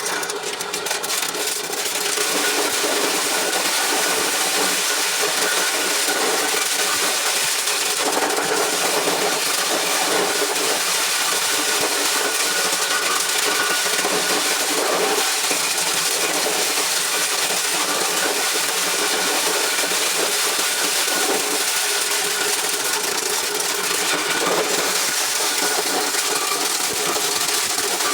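Motor-driven corn shelling machine running steadily: a dense mechanical clatter over a faint engine hum.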